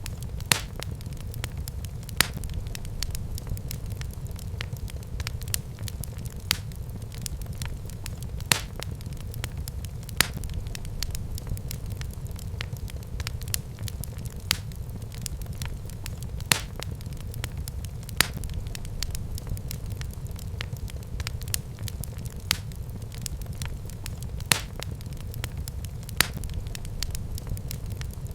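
Wood fire burning in a fireplace: a steady low rumble of flames with sharp pops and crackles every second or two.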